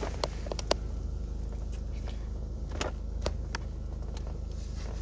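Low steady rumble inside a car in a car wash, with scattered light clicks and taps on top.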